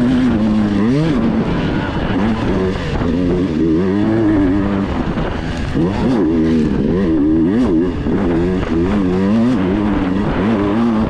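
Dirt bike engine under way, its revs rising and falling over and over as the throttle is opened and closed.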